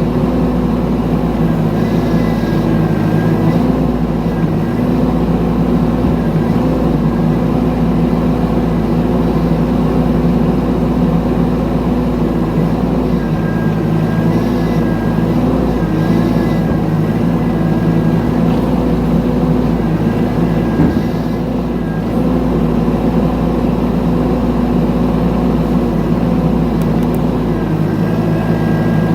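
Mini excavator's engine running steadily while digging, with a thin high whine that comes and goes. The sound dips briefly about three-quarters of the way through.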